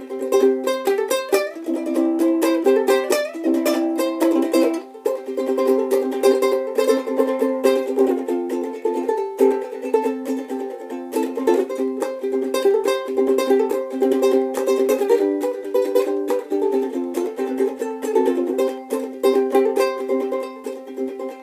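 Solo ukulele playing an instrumental break: fast picked and strummed melody with steady chords.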